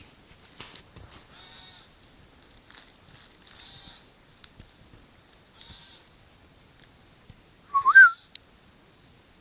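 A bird giving repeated harsh, scratchy alarm calls every second or two, the kind of distress call birds make when a predator is near. About eight seconds in there is a single short, loud whistled note that rises in pitch.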